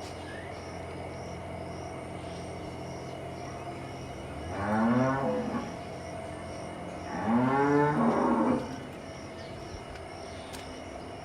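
A cow mooing twice, two long calls a couple of seconds apart, each rising and then falling in pitch, over a steady low hum.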